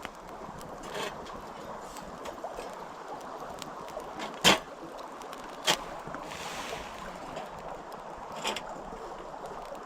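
Small wood campfire crackling, with a few sharp pops about a second in, in the middle and near the end, over a steady rushing background.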